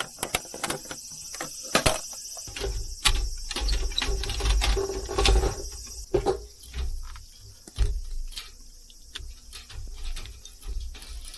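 Irregular clicks, taps and knocks of objects being handled at close range, with some low rumbling, over a steady high chorus of insects.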